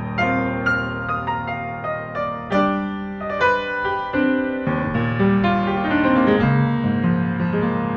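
Solo piano music: notes and held chords struck one after another, with a calm, tender feel.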